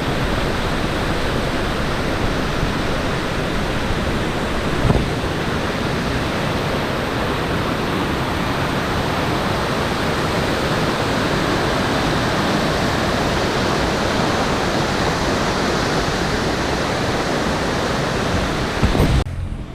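Waterfall pouring into a rock pool: a loud, steady rush of falling water that cuts off abruptly near the end.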